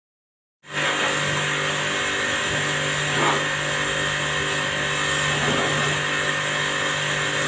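A motor or engine running steadily with an even hum, starting abruptly after a moment of dead silence from an edit cut.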